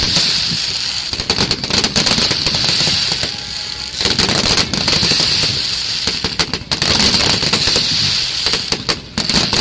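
Fireworks finale barrage bursting close by: rapid bangs and crackling with no let-up, with sharper bangs about four seconds in and again around six and a half and nine seconds.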